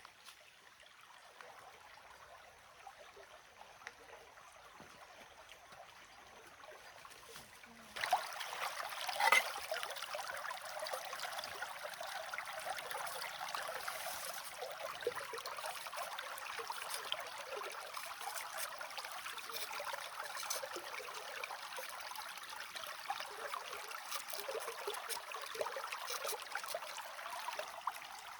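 Water running and trickling steadily. It starts suddenly about eight seconds in, after a faint quiet stretch, with a couple of knocks as it begins.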